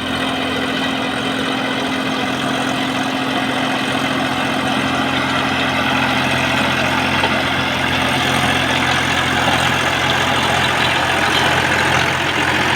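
Massey Ferguson tractor engine idling steadily.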